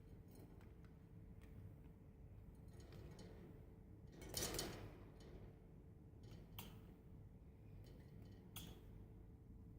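A budgie bathing: one brief splash and flutter in the water about four and a half seconds in, with a few faint clicks around it. Otherwise near silence with a faint steady hum.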